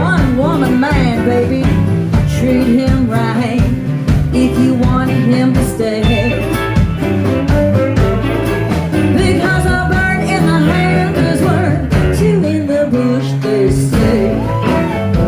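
Live band playing a blues song, an instrumental break with a lead line bending notes over steady bass and chords.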